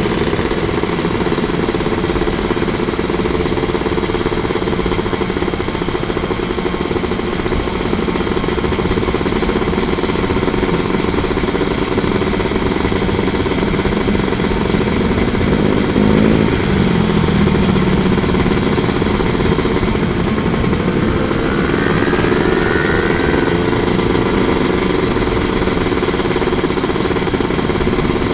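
Two-stroke 150 cc Kawasaki motorcycle engine running while riding, with steady low rumble. Its pitch shifts about halfway through, then rises as the revs climb a few seconds later.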